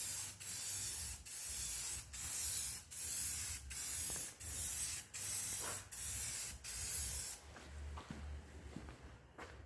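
Spray hissing in short, evenly spaced bursts, about four every three seconds, stopping about seven seconds in.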